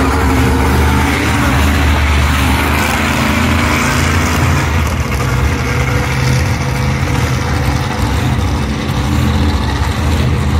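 Monster truck engines running with a steady, loud low note.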